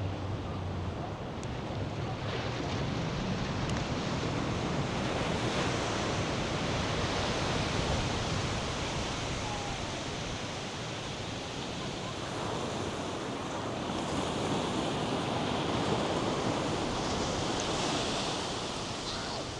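North Sea surf breaking on a sandy beach, a steady wash that swells louder twice, with wind rumbling on the microphone.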